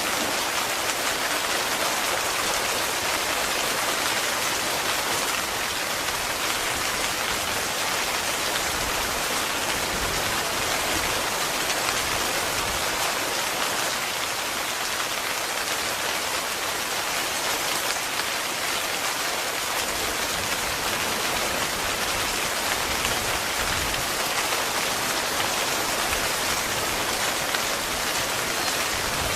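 Heavy rain falling steadily on a tent, an even hiss with no let-up.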